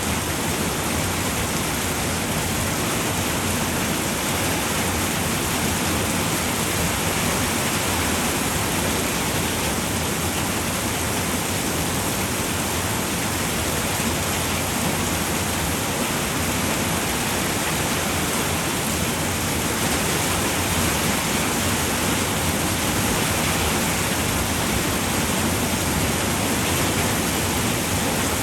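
Rain falling steadily on a roof: a dense, even hiss of drops with no distinct hits or changes.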